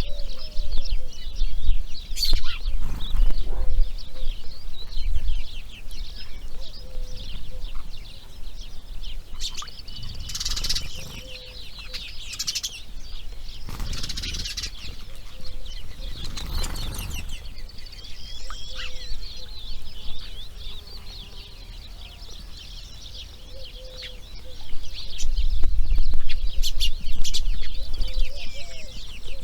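Grey heron chicks chattering at the nest: a fast, unbroken high ticking chatter, with a few short rustling or wing-flap noises about midway and a low rumble at the start and near the end.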